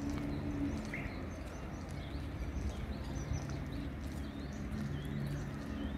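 Small birds chirping in short, scattered calls, over a low hum that comes and goes.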